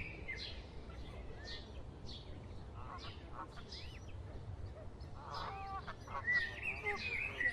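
Birds calling: short high chirps repeating throughout, with louder, fuller calls from about five seconds in.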